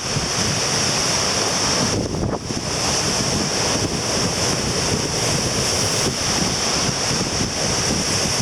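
Strong wind buffeting the microphone over the steady rush of surf breaking on the shore at high tide.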